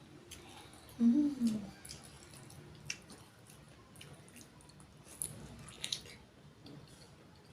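Close-up mouth sounds of someone eating pork: wet chewing with scattered sharp lip-smacking clicks, and a short hummed voice sound about a second in.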